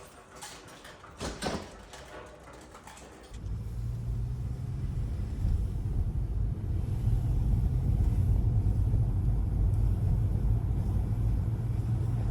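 A car in motion: a steady low rumble starts suddenly about three seconds in, after a few soft clicks and rustles, and stops abruptly at the end.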